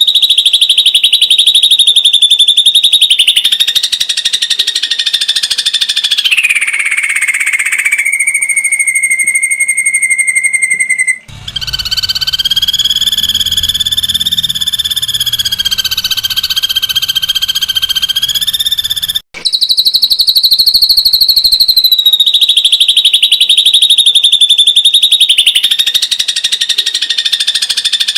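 Ashy drongo giving its rapid 'tembakan' trill: long, high, buzzy trills that drop in pitch partway through, then a steady lower note. After a sudden cut comes a lower trill over a low hum, and after a second cut the opening sequence starts again as a repeated recording.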